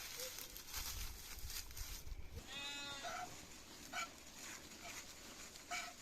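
A goat bleats once midway through, a single wavering call about half a second long, followed by a few short chirps over a faint outdoor rustle.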